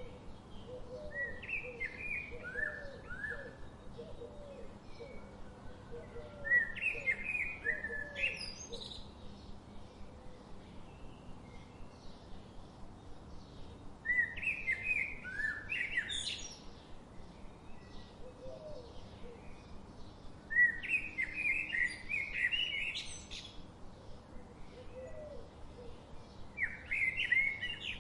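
Songbirds singing: a phrase of quick chirping notes comes about every six or seven seconds. A lower run of short repeated notes sounds through the first several seconds, over a faint steady hiss.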